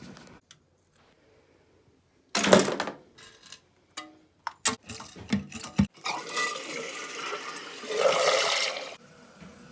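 A few sharp knocks and clatters, then water rushing for about three seconds, growing louder before it cuts off suddenly.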